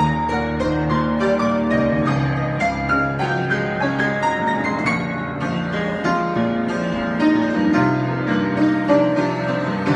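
Solo piano improvisation: many notes sounding together, chords with a moving melody above, at a steady moderate loudness.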